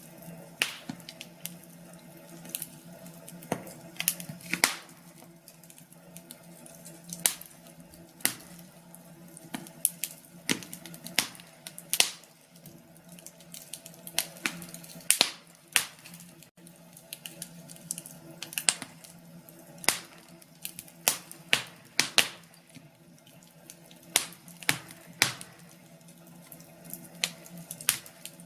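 Wood fire of burning logs crackling: irregular sharp pops and snaps, some much louder than others, over a steady low background.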